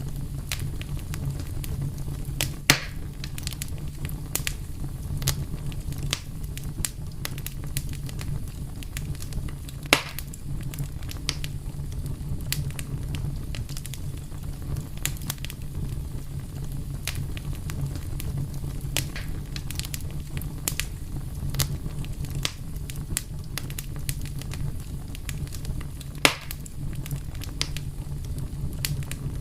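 A fire crackling steadily: a low rumble with many small ticks and snaps over it, and three louder pops, one near the start, one about a third of the way in and one near the end.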